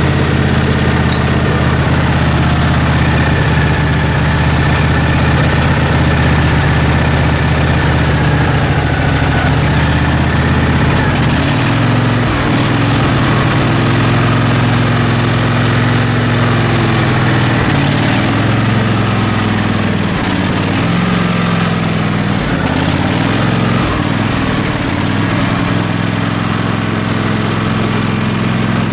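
Small engine of a Craftsman riding lawn mower running steadily, its speed dipping and picking back up a few times in the second half.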